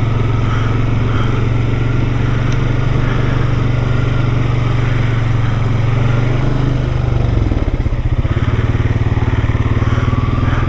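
ATV engine running at a steady throttle, then easing off about seven seconds in to a lower, pulsing engine note.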